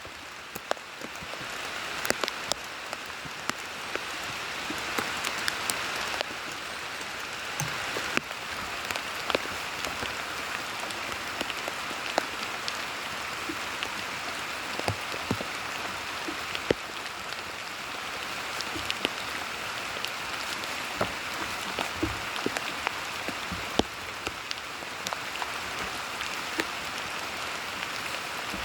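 Steady rain falling, with many scattered sharp ticks of individual drops striking close by.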